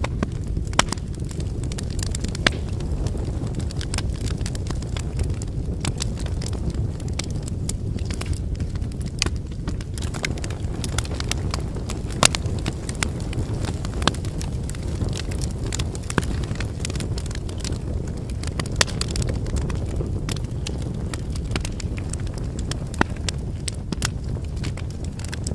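Wood campfire burning: a steady low rumble of flames with irregular crackles and snaps from the burning logs, a few louder pops among them.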